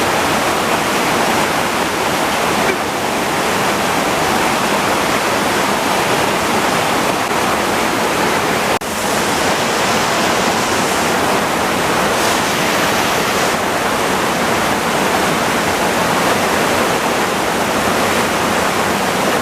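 Rushing water of a fast-flowing creek waterfall close by: a steady, loud roar of water that briefly drops out just under nine seconds in.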